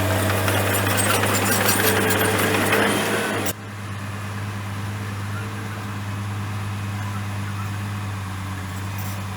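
Komatsu bulldozer's diesel engine running steadily, with a loud clatter and scrape of the machine working over it that cuts off abruptly about three and a half seconds in, leaving the engine running quieter.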